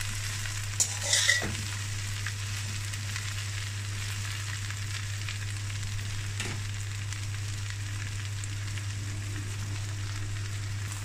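Chopped okra sizzling in oil in a pan, being lightly fried, with a few sharp scrapes of a slotted metal spatula stirring it in the first second and a half and one more stroke about halfway. Then a steady sizzle over a low hum.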